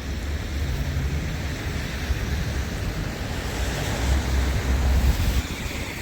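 Strong storm wind buffeting the microphone, a loud, steady rumbling wind noise that swells a little about four to five seconds in.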